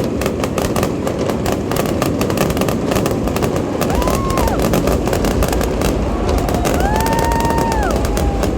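Fireworks display going off in a dense barrage of rapid bangs and crackles, with a deeper rumble of booms from about halfway. Two high whistles rise, hold and fall, one about halfway and a longer one near the end.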